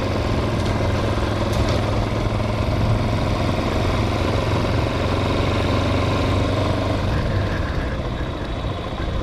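Hawk 250 motorcycle's single-cylinder engine running at a steady, low, even pitch while riding slowly.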